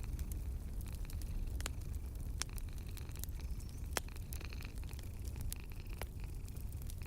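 Wood fire in a fireplace crackling: irregular sharp pops and snaps, the strongest about four seconds in, over a steady low rumble.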